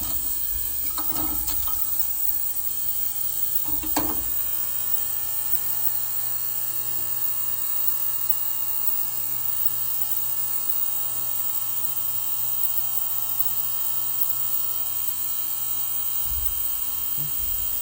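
Ultrasonic parts cleaner running with a steady electric hum. A few short knocks and clinks come in the first few seconds, the sharpest about four seconds in.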